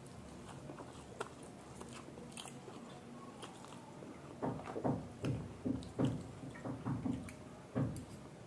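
A person chewing food close to the microphone. It is faint at first, then about halfway through comes a run of loud, wet chewing sounds at about two a second.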